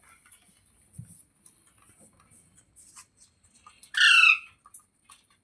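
A pet parrot gives one loud, harsh squawk about four seconds in, lasting about half a second and falling slightly in pitch. Before it there are only faint small clicks and a soft thump about a second in.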